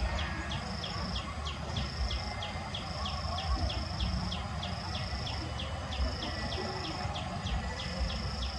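Insects calling: an even rhythm of short falling chirps, about three a second, with a high steady buzz that comes and goes, over a low rumble.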